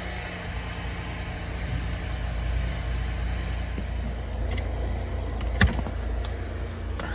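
2007 Honda Odyssey's V6 engine running with a steady low rumble and a faint hum, with a few short clicks, the sharpest about two-thirds of the way through.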